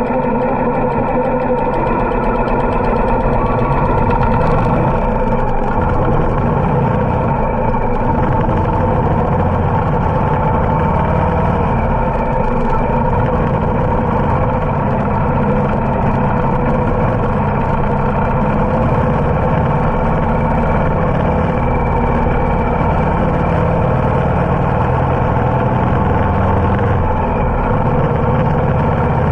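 Harley-Davidson motorcycle engine running at a steady pace, held without revving up or down.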